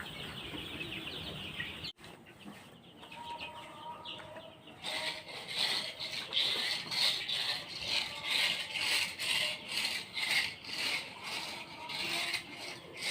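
A flock of young Sonali chicks cheeping. From about five seconds in, a repeated scraping joins them, about two strokes a second.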